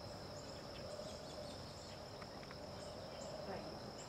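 Insects trilling in one steady, high, unbroken drone, with faint short high chirps scattered over it.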